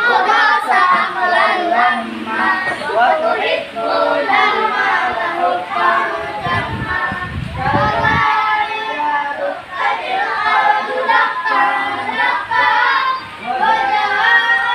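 A group of children chanting together in unison, many voices at once. A brief low rumble comes in about six seconds in.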